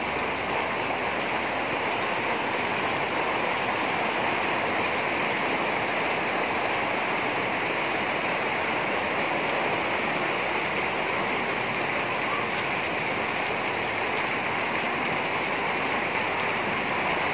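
Heavy rain pouring down, a steady, even hiss of water with no breaks.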